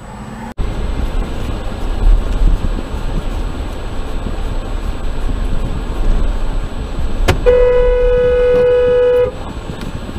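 Steady low rumble of a car driving, then about seven seconds in a car horn sounds one long, steady blast lasting about two seconds.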